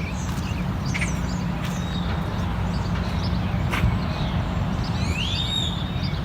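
Outdoor birds chirping a few times, with a longer up-and-down call near the end, over a steady low background rumble.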